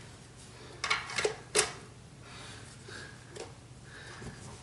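Hard plastic and metal vacuum parts being handled and set down: three sharp clicks and knocks in quick succession about a second in, then a fainter click a couple of seconds later.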